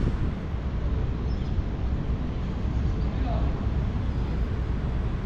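City street ambience: a steady low rumble of traffic with indistinct voices of passers-by.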